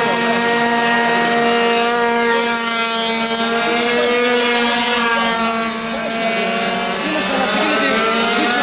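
Minimoto pocket bikes' small two-stroke engines running at high revs in a race: a high, steady engine whine from several bikes at once, with pitches sliding up and down about two seconds in and again near the end as bikes pass.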